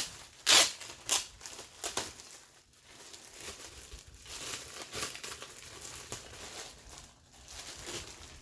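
Packaging crinkling as a garment is unwrapped by hand: a few loud rustles in the first two seconds, then softer, steady crinkling.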